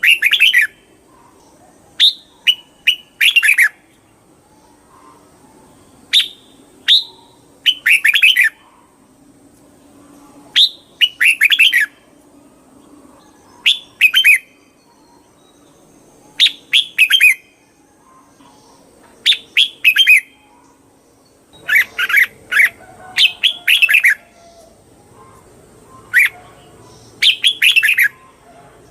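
Red-whiskered bulbul singing: short, loud, chirpy phrases repeated every one to three seconds.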